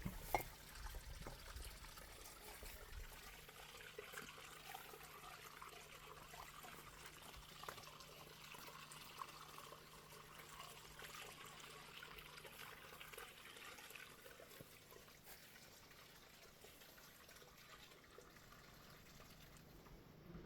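Faint trickling water, running steadily.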